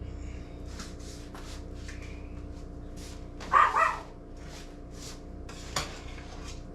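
A dog barks twice in quick succession about halfway through. Underneath there is a steady hum and faint, irregular clicks.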